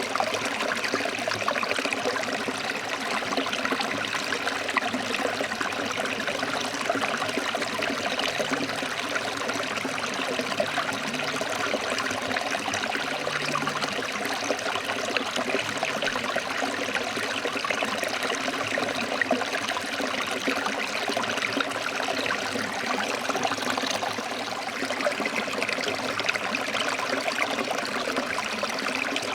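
Forest stream flowing over rocks: a steady rush and babble of water.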